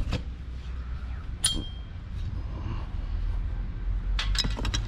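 Metal scrap being handled: one sharp metallic clink with a brief ring about a second and a half in, then a quick run of clicks and rattles near the end.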